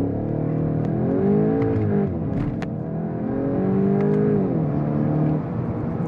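Volkswagen Golf GTI's 2.0-litre turbocharged four-cylinder under full throttle in a launch from a standstill, heard from inside the cabin. The engine note climbs, drops as the dual-clutch gearbox upshifts about two seconds in, climbs again, and drops with another upshift near the end.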